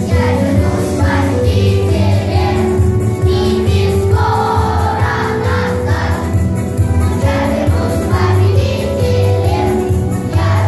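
Children's choir singing a song together over a steady instrumental accompaniment.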